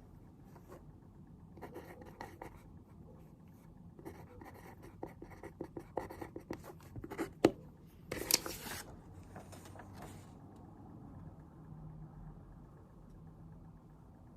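Pen writing on paper at a desk: soft scratching strokes and small taps, with one sharp click about seven seconds in and a brief louder rustle of paper just after. The writing stops about ten seconds in, leaving a faint low steady hum.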